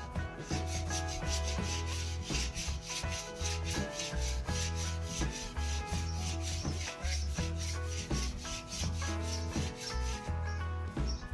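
Sandpaper rubbing back and forth on a wooden snooker cue shaft in quick, even strokes, over background music with a pulsing bass line.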